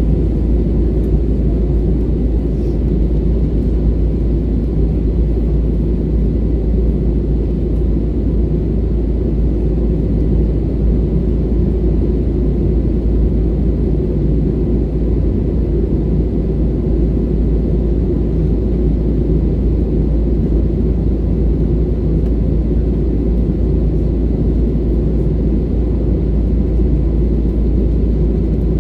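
Steady low rumble of an Airbus A320neo in flight, heard inside the cabin: engine and airflow noise holding constant throughout.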